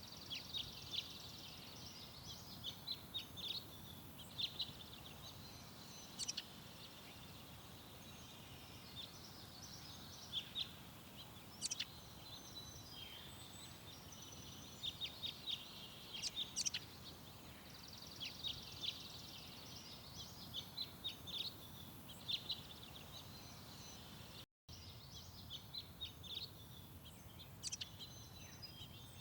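Garden songbirds calling: repeated short, high chirps and quick trills from several birds, over a faint steady background noise. All sound drops out for a split second near the end.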